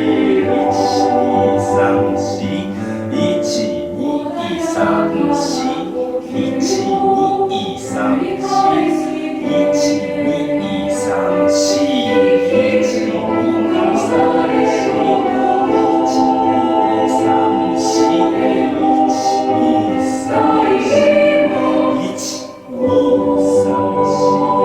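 A choir singing a Japanese school choral song in sustained, full harmony, with a brief break between phrases near the end.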